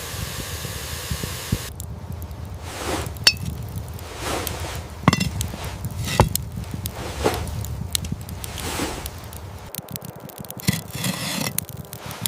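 A steady hiss cuts off abruptly after about two seconds. Then come a series of sharp clinks and scrapes of cooking utensils against cookware, roughly once a second.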